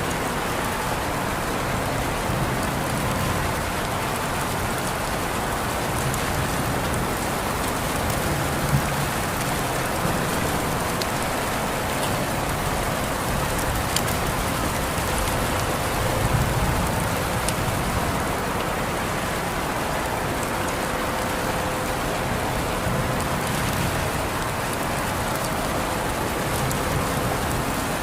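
Steady rain falling on a surface, an even hiss with scattered single drop ticks.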